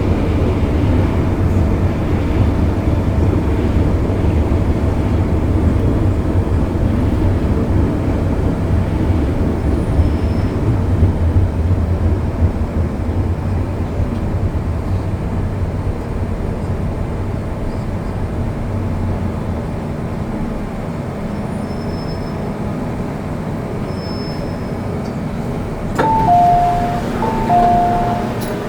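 MTR M-Train metro car heard from inside while running: a loud low rumble that eases off after about twelve seconds. Near the end an onboard two-note chime, high then low, sounds twice.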